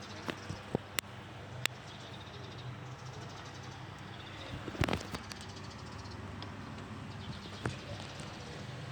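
A few sharp taps and knocks, handling noise, over a steady low background hum.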